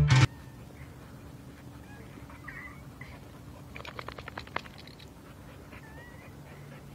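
A dog whining faintly in short, high, wavering whimpers, with a quick run of rapid clicks about four seconds in. Music cuts off right at the start.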